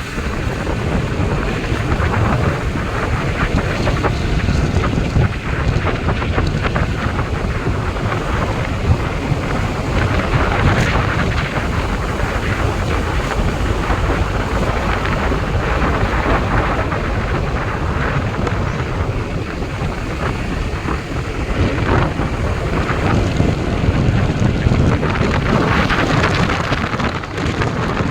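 Strong wind buffeting the microphone: a loud, steady rumble with hiss, rising and falling in gusts.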